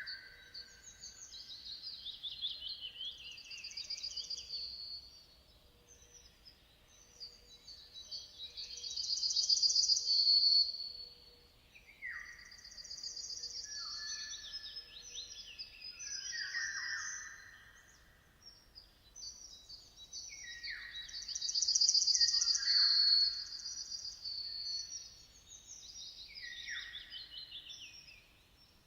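Songbirds singing in repeated phrases of fast, high trills and quick notes sliding downward. One phrase follows another every few seconds, with the loudest about a third of the way in and again past the two-thirds mark.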